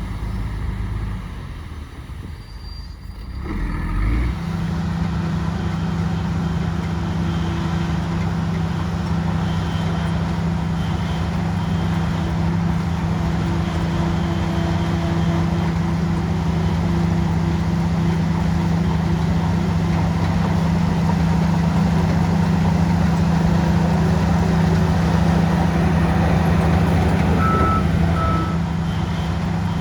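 A heavy diesel earthmoving machine's engine running steadily. It grows louder about four seconds in and then holds a constant drone. Near the end there are two short beeps.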